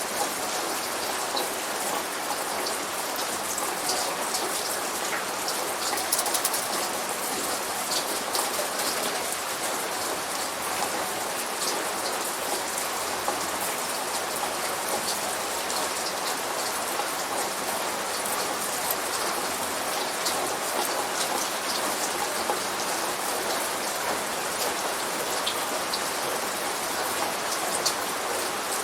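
Light rain falling steadily: an even hiss of rain with many small individual drop ticks scattered through it.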